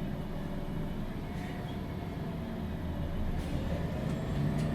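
MAN NG 313 CNG articulated bus's natural-gas engine running, heard from inside the passenger cabin, with a steady engine hum and road noise that grow louder over the last second or so.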